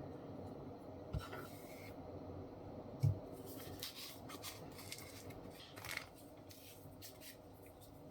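Hands working with small wooden blocks and fabric strips: scattered rustles and scrapes, a small click about a second in and a dull knock about three seconds in as a block is set down, over a steady low hum.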